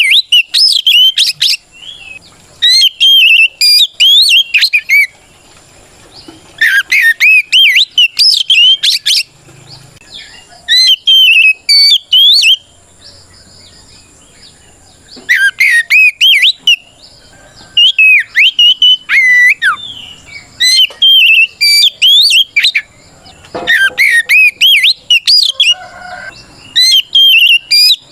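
Oriental magpie-robin singing a loud, varied song of rapid swooping whistles, delivered in bursts of one to three seconds with short pauses between. It is a full-voiced 'ngeplong' fighting song that calls out a rival male.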